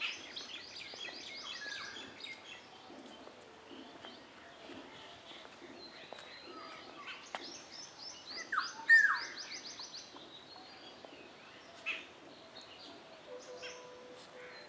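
Birds calling: a fast run of high chirps at the start and another from about seven to nine seconds in, with two loud downward-sliding calls just before nine seconds, the loudest sounds, and scattered lesser calls between.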